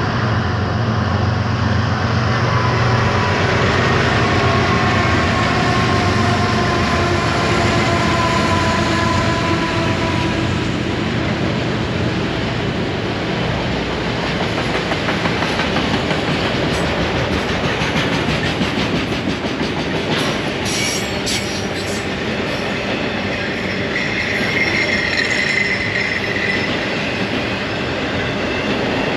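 Freight train passing: its diesel locomotives drone low for the first several seconds, then the autorack cars roll by with a steady rumble of wheels on rail. A few sharp clicks come partway through and a brief wheel squeal near the end.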